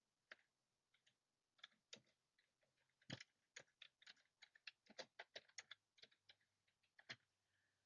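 Faint typing on a computer keyboard: a run of short, irregular key clicks, thickest in the middle.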